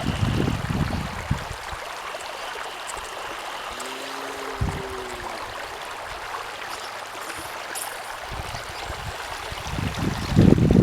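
Rain and running water, a steady hiss, with a short pitched sound about four seconds in and low rumbles on the microphone near the end.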